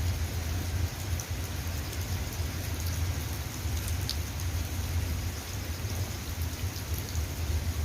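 Steady rain falling, an even hiss with a few small drip ticks, over a continuous low rumble.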